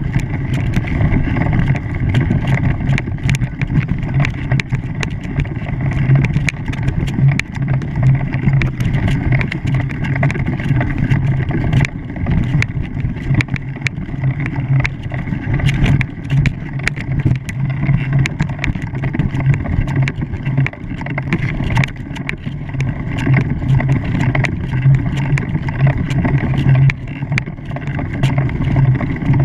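An engine running steadily, with a low pulsing hum, under a constant wash of wind or water noise and scattered small knocks.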